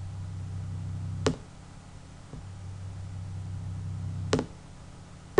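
A synthesized pure tone at about 32.7 Hz, the lowest partial of a piano's C1, played through laptop speakers that cannot reproduce 32 Hz, so it comes through only as a faint low hum. It stops with a click about a second in, then the same tone sounds again for about two seconds and stops with another click near the end.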